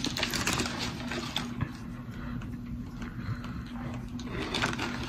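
A person chewing a bite of grilled wrap: soft, irregular mouth and chewing noises with small clicks, over a steady low hum.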